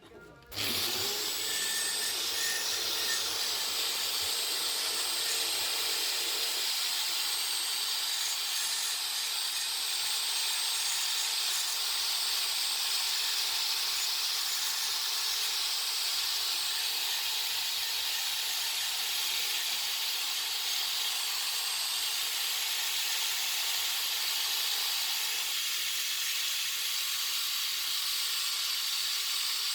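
Compressed air hissing steadily from the nozzle of a blast cabinet. It starts suddenly about half a second in and holds an even, high-pitched hiss.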